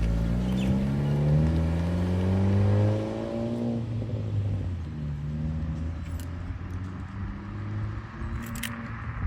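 Honda Civic Si's 1.5-litre turbo four-cylinder revving through a Type R (FK8) exhaust with the mid-pipe resonator removed: the pitch climbs steadily for about four seconds, then drops back to a steady idle.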